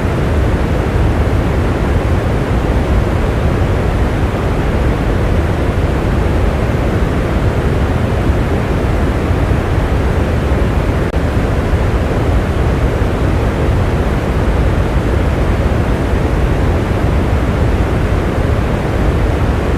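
Steady rain, a dense unbroken rush that is heaviest in the low end and carries little bright patter.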